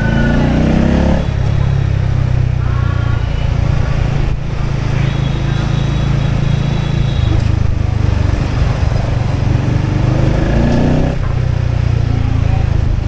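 Motorbike engine running steadily while riding, its low drone shifting a little as speed changes. Brief voices of people nearby come and go.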